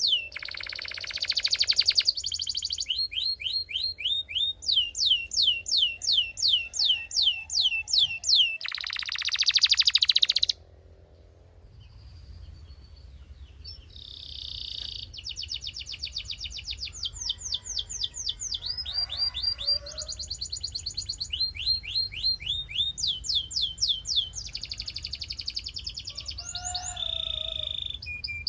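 Belgian canary singing: fast trills of repeated falling whistled notes, twice broken by a loud harsh rattling phrase, with a pause of a few seconds near the middle before the song picks up again.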